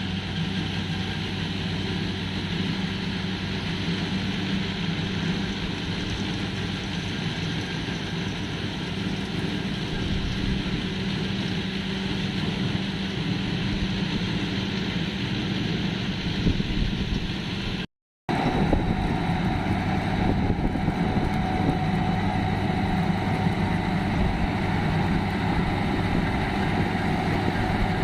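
Farmtrac 6065 tractor engine running steadily under load while driving a straw reaper, a continuous low drone over a dense mechanical rush. The sound cuts out for a moment about eighteen seconds in, then resumes much the same.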